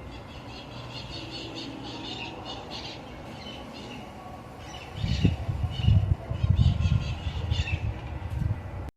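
Birds calling in many short, repeated chirps and squawks. A loud low rumble joins them from about five seconds in and is the loudest sound, and everything cuts off suddenly near the end.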